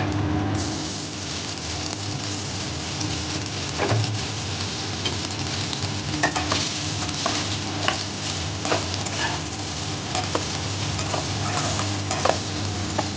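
Diced meat frying in hot oil in a non-stick wok. The sizzle jumps up about half a second in as the cubes go into the pan, then holds steady, with a spatula now and then clicking and scraping against the pan as they are stirred.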